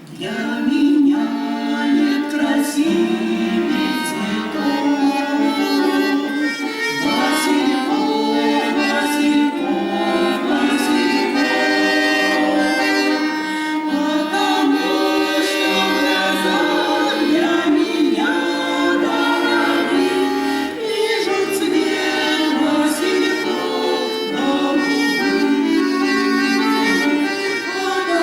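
Accordion music with sustained chords and a moving melody, coming in loudly just after the start.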